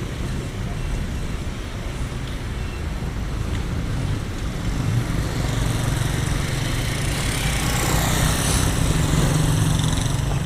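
Street traffic: motor vehicle engines running steadily, with one vehicle growing louder as it passes close, loudest about eight to nine seconds in.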